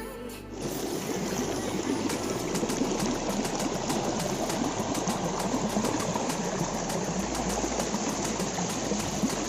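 Waterfall pouring steadily into its pool, a continuous rush of water that takes over as music cuts out about half a second in.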